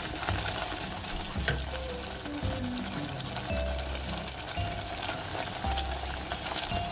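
Spice paste of onion, garlic, yogurt and ground spices frying in oil in a steel pot, sizzling steadily while a wooden spoon stirs and scrapes through it. There are scattered small clicks of the spoon against the pot. This is the masala being fried (bhuna) before water goes in.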